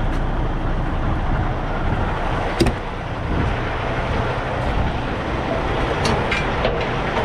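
Semi-truck's diesel engine idling with a steady low rumble. A single sharp metallic clank about two and a half seconds in, and a few lighter clicks near the end.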